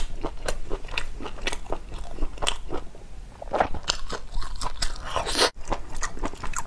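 Close-miked biting and wet chewing of a piece of braised beef with chive-flower sauce: a quick, irregular run of sticky mouth clicks and smacks. The sound cuts out for an instant about five and a half seconds in.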